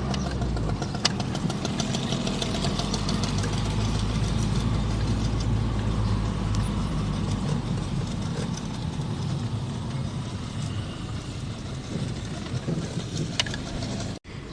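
Car engine running, a steady low rumble with scattered faint ticks, cut off abruptly just before the end.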